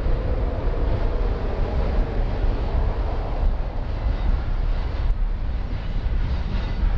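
Freight train of centerbeam flatcars loaded with lumber rolling past, a steady low rumble of wheels on the rails, with faint high squeals coming in during the second half.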